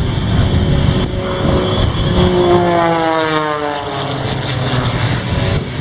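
Loud roar of jet engines on afterburner, from the Shockwave jet truck's three jet engines taken from a T-2 Buckeye. From about two seconds in, an aircraft passes by and its engine tone drops steadily in pitch as it goes.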